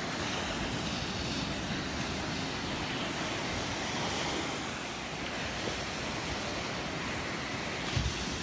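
Small Gulf of Mexico waves breaking and washing on a sandy shore, a steady surf hiss, with wind buffeting the microphone. A brief low thump comes near the end.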